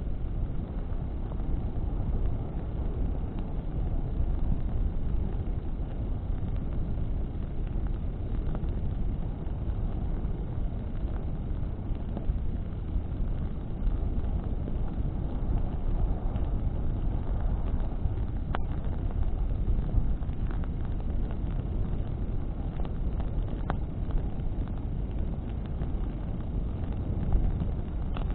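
Bonfire burning in the wind: a steady low rumble of flames and wind, with a few sharp crackles from the burning wood, the loudest about two-thirds of the way through.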